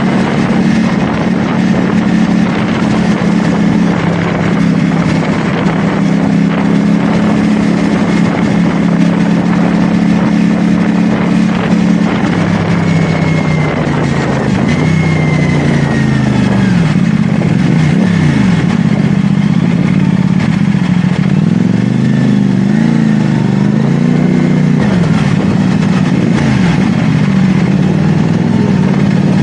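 CFMoto 450SR S motorcycle's parallel-twin engine running under way. It holds a steady pitch for about the first twelve seconds, then rises and falls repeatedly with throttle changes.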